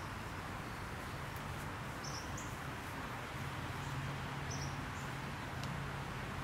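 Outdoor ambience: short high bird chirps every second or two over a steady background hiss, with a faint low hum near the middle.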